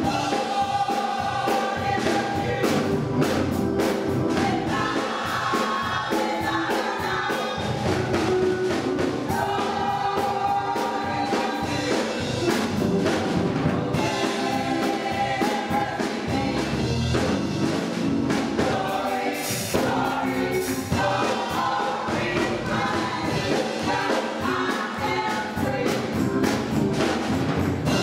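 Gospel choir singing with instrumental accompaniment, held notes over a steady beat.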